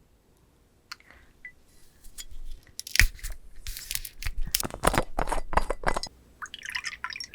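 Close-miked wet chewing and squishing of raw giant rock oyster in a vinegary chili dressing, with crisp crunches from the salad vegetables. The sounds start about two seconds in, are densest in the middle, and turn softer near the end.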